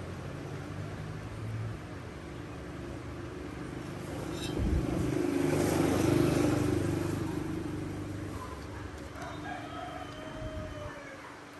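A passing vehicle swells and fades over a few seconds. Near the end there is a faint call with sliding tones, like an animal's.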